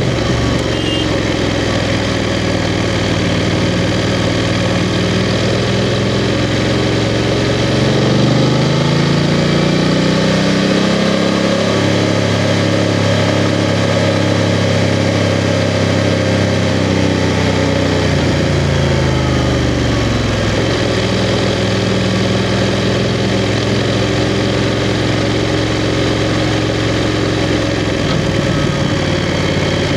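BMW F 750 GS's 853 cc parallel-twin engine running under way. It revs up about a third of the way in, holds higher revs for several seconds, then falls back to a lower steady engine note, over steady wind and road noise.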